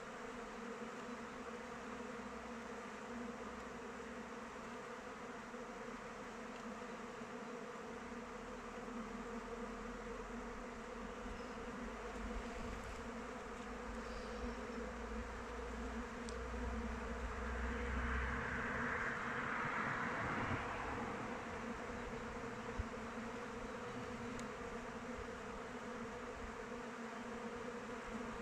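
Many honeybees buzzing in flight around their hive: a steady, many-voiced hum that swells louder for a few seconds about two-thirds of the way in.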